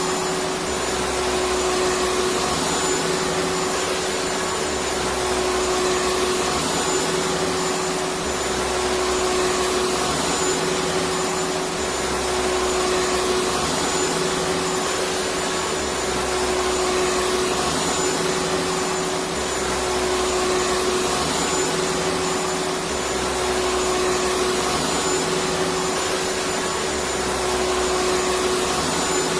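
Electric vacuum cleaner running steadily: a continuous whooshing motor and airflow noise with a steady whine, and a low throb that comes and goes every couple of seconds.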